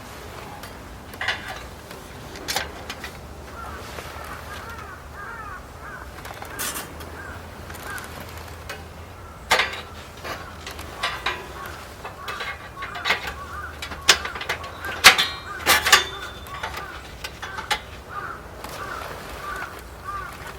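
Crows cawing in runs of short repeated calls, with scattered sharp clicks and knocks throughout.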